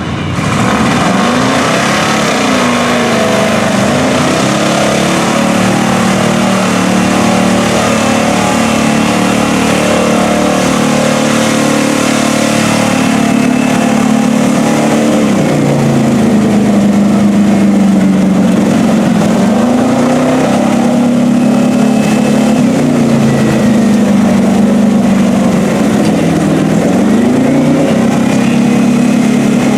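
Mud-bog trail truck's engine running hard, its revs rising and falling again and again as it works through the mud pit.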